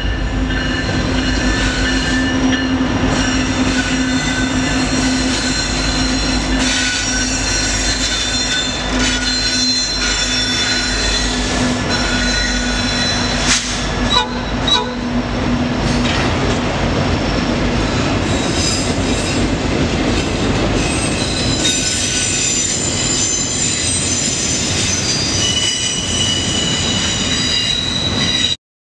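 A train rolling past: a steady rumble of steel wheels on rail, with several high, steady wheel squeals and a few clacks over rail joints. The sound cuts off abruptly near the end.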